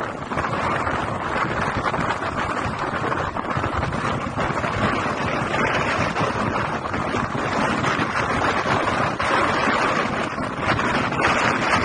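Strong blizzard wind buffeting the microphone: a continuous loud rush that swells and eases slightly in gusts.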